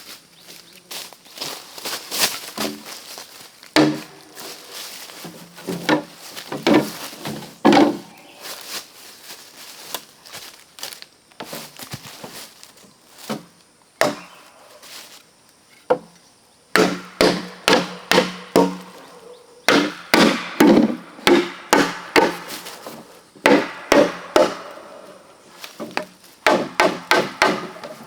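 Bamboo being chopped with a blade: repeated hard chopping strokes, each with a short ringing knock. The strokes are spaced out at first, then come in quick runs of about two to three a second from about two-thirds of the way in.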